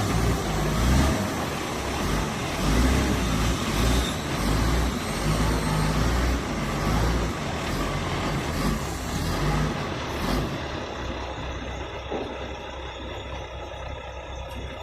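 Nissan TZA 520 dump truck's diesel engine running, with an uneven low rumble under a noisy hiss. About two-thirds of the way through the hiss drops away, leaving a steadier low hum.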